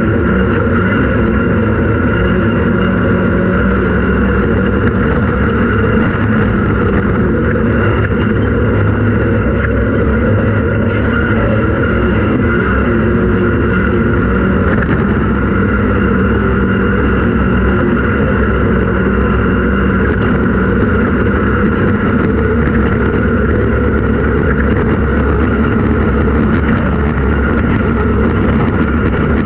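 Off-road race vehicle's engine running at a steady, unchanging speed, a loud continuous drone with no revving up or down.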